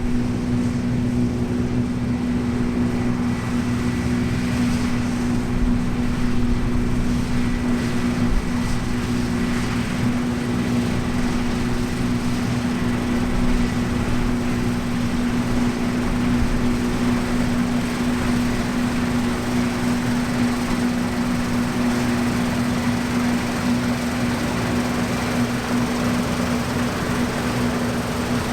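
New Holland CX8.70 combine harvester running steadily while cutting wheat: an even mechanical hum with a constant low tone over a broad rushing noise.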